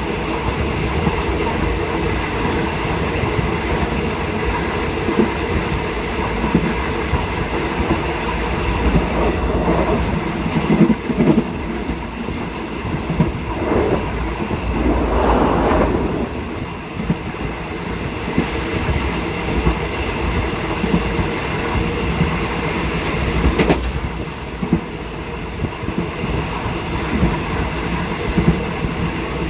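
Train carriage running along the rails, heard from the rear of the last coach: a steady rumble of wheels on track with a few sharp clicks, swelling into a louder rush a little past the middle.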